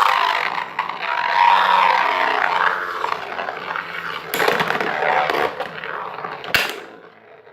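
Two spinning Beyblade tops, a metal Tornado Wyvron and an attack-type top, whirring and grinding against each other in a stadium. Sharp clashes come about four, five and six and a half seconds in, and the whirring dies down near the end as the tops wind down.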